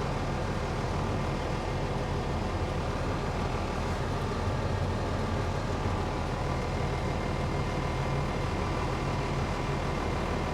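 Cummins diesel engine of a self-propelled crop sprayer running steadily, heard from inside the cab as an even low drone.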